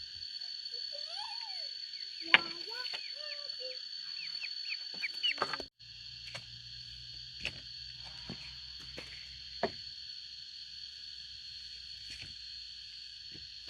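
Chickens clucking over a steady high-pitched drone, with a few sharp knocks in the second half.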